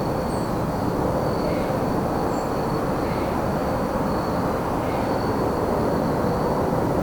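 Evening forest ambience: a steady low rumble of distant vehicle traffic under a cricket trilling at one high pitch in broken stretches. Faint short bird chirps come through every second or so.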